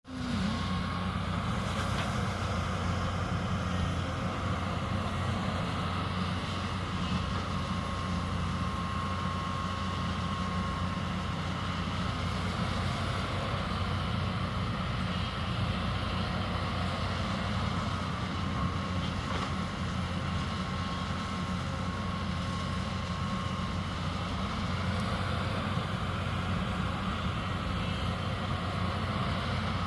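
Hyundai 220 excavator's diesel engine running steadily.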